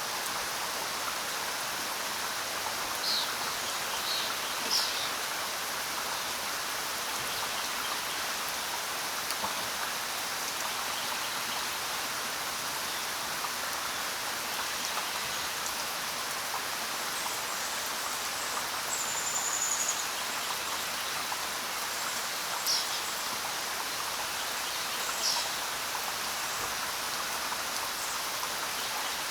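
Steady rain falling, with a few short, high bird chirps scattered through and one brief falling whistle about two-thirds of the way in.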